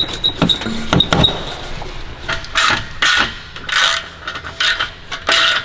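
Metal clinks and a light ring of tools against the exhaust pipe. Then a socket ratchet is worked in repeated strokes, about two a second, tightening the exhaust's fittings as the X-pipe section goes back in.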